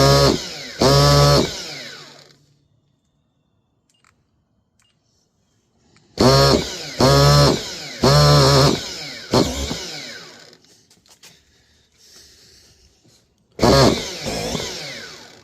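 Electric starter box spinning a 1/8-scale nitro engine in short bursts of about half a second each, in three groups with quiet between them, each burst winding up and running down without the engine catching. The speaker puts the failure to start down to a bad glow plug.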